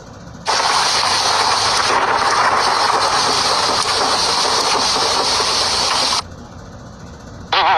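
A steady hiss, like escaping steam, that starts abruptly about half a second in and cuts off sharply after about six seconds.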